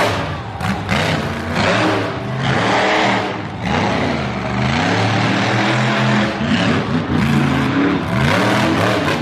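Monster truck engine revving hard, its pitch repeatedly climbing and dropping as the throttle is worked.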